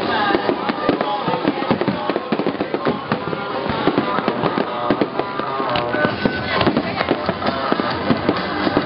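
Aerial fireworks display: a dense, rapid run of bangs and crackles from shells bursting overhead, many a second, with music playing underneath.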